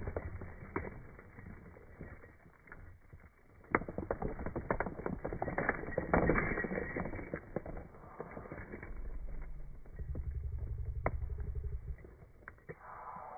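Hand work on mini bike hardware: irregular clicks, knocks and creaks of small metal parts being handled and fitted, with a low steady hum for a few seconds in the second half.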